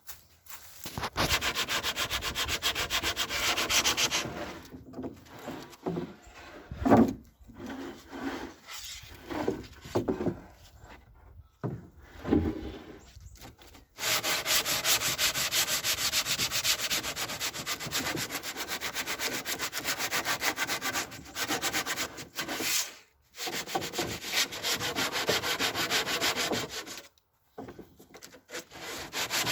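Power sander running in two long stretches, with rapid fine pulsing, and stopping and starting in short bouts in between.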